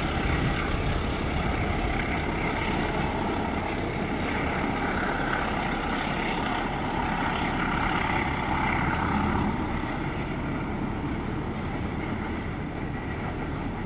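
A train running past with a steady rumble that eases off slightly over the last few seconds.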